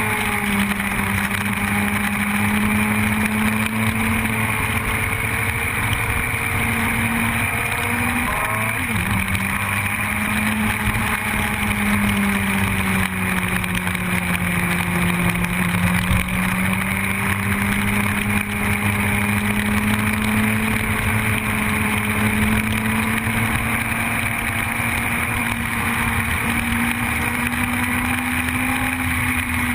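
Yamaha R1 sport bike's inline-four engine running steadily under way, its pitch drifting slowly up and down with the throttle, with a brief jump in pitch about eight to nine seconds in. A steady rush of wind and road noise runs under it.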